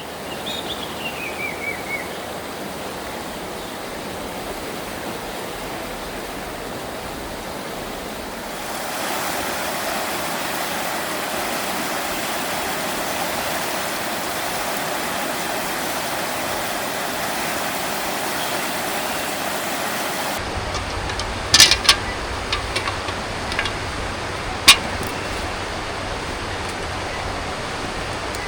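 Steady rush of a river flowing, its tone shifting abruptly twice, with a short falling whistle at the start and a few sharp knocks in the last third.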